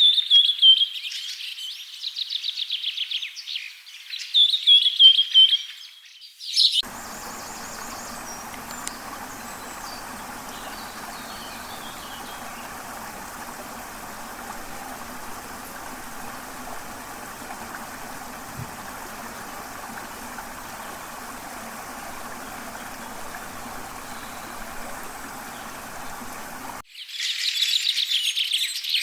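Rainforest nature sounds: rapid, high-pitched chirping trills for about the first six seconds, which break off suddenly. A steady, even background noise follows, and the chirping trills return near the end.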